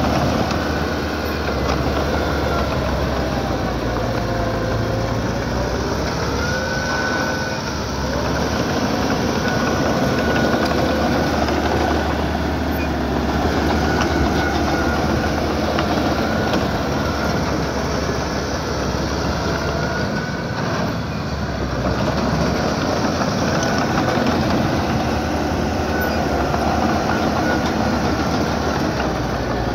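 Small crawler bulldozer working, its diesel engine running steadily while its steel tracks squeal and clank, with squeals that come and go.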